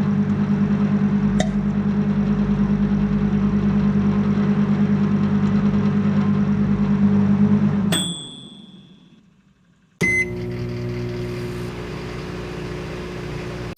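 Microwave oven running with a steady hum, then a chime about 8 s in as it stops and the hum winds down. About two seconds later a click and a short beep start it again, and it hums steadily until another chime at the very end.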